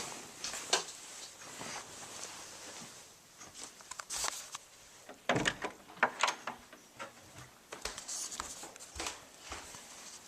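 Scattered light knocks, clicks and rustling, irregular, with a few sharper knocks in the middle.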